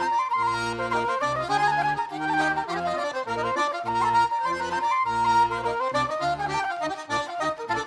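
Recorded traditional Irish dance tune on accordion: a quick melody over steady, evenly pulsed bass chords.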